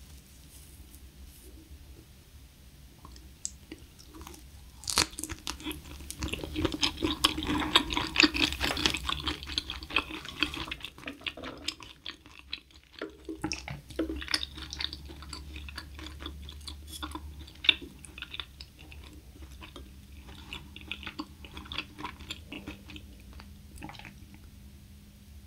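Close-miked chewing and crunching of raw sweet shrimp wrapped in crisp roasted gamtae seaweed. The crunching is loudest and densest from about five seconds in, pauses briefly near the middle, then goes on as softer, scattered chewing.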